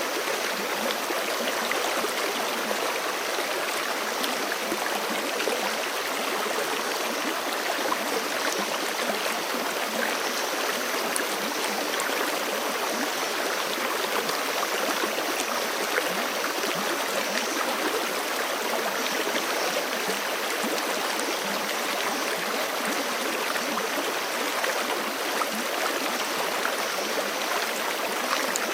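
A forest creek running over rocks: a steady, even rush of flowing water.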